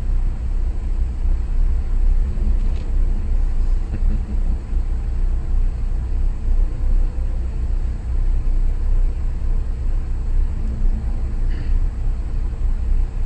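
A car driving at a steady pace, with a continuous low rumble of engine and road noise and no revving.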